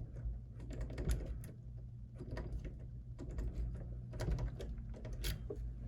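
Key blank being twisted and rocked in an SC1 mortise lock cylinder's keyway to raise impression marks, giving irregular small metallic clicks and taps over a low steady hum.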